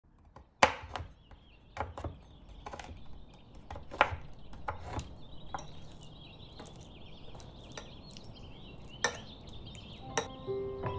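Knife chopping on a wooden cutting board: single sharp knocks at an irregular pace, about a dozen in all, with a faint high chirping behind them. Soft mallet-like music comes in near the end.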